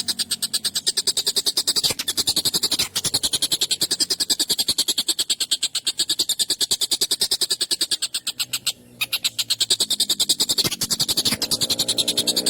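Collared kingfisher (tengkek buto) giving a long, rapid, harsh rattling chatter of calls, with a short pause about nine seconds in.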